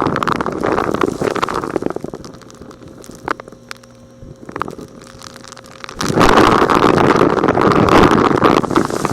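Vacuum cleaner sucking up small rocks, a dense rattling crackle. About two seconds in it drops to a quieter steady hum with two sharp clicks, and the rattling starts again about six seconds in.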